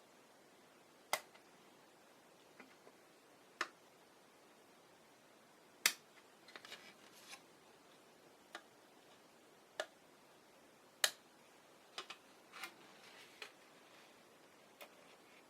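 Scattered sharp clicks and snips of hobby tools on plastic model kit parts, about a dozen spread irregularly, a few in a quick cluster midway through.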